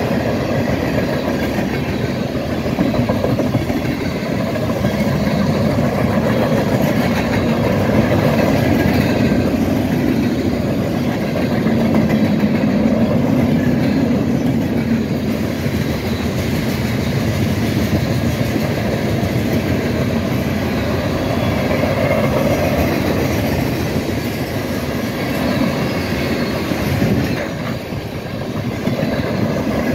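Freight cars rolling past close by: a steady rumble of steel wheels on rail with a rapid clatter over the rail joints. The sound dips briefly near the end.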